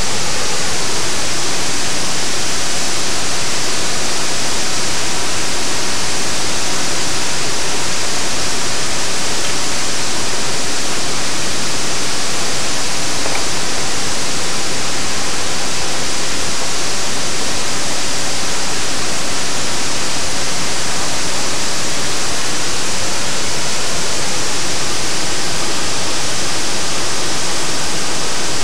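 Waterfall crashing steadily: a loud, even rush of falling water with no change.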